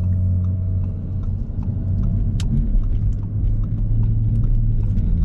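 Audi S5 driving, its engine and road noise heard inside the cabin as a steady low drone.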